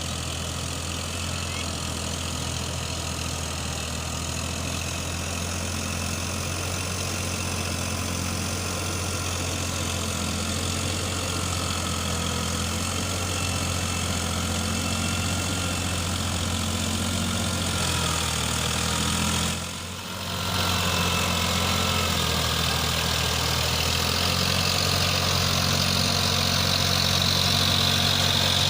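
Eicher 557 4WD tractor's diesel engine running steadily, dipping briefly about two-thirds of the way through, with a hiss growing louder near the end.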